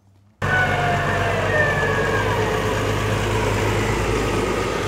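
Near silence, then about half a second in a tractor's diesel engine cuts in, running steadily, with a faint falling whine over it in the first couple of seconds.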